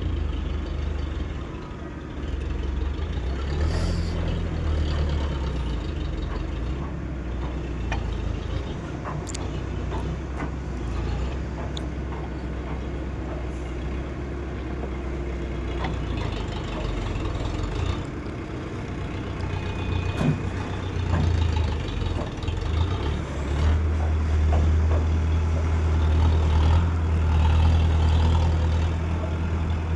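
Excavator's diesel engine running steadily at a work site, its low drone swelling louder about three-quarters of the way through, with scattered short clicks and knocks.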